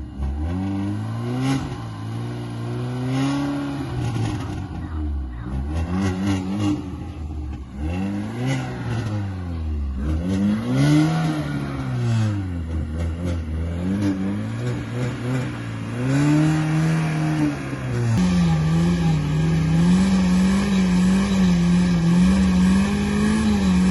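Chevrolet Niva engine revving up and dropping back again and again, every two to three seconds, as the car works through rough off-road ground. From about eighteen seconds in it holds at steadier, higher revs with a slight waver.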